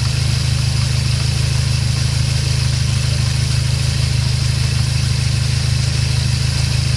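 Dodge SRT-4's turbocharged four-cylinder idling steadily, with a fast, even chatter from the transmission. This is the clutch chatter that the owner has heard since day one despite an ACT HDSS clutch, hardened fork and a master cylinder meant to keep tension on the fork; he calls it a pretty common thing on these cars.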